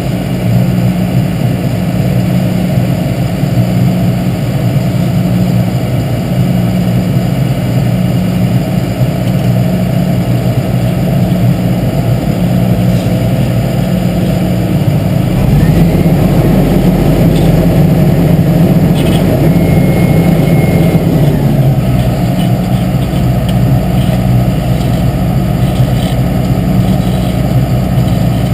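Engine of heavy asphalt-paving machinery running steadily, growing louder and deeper about halfway through.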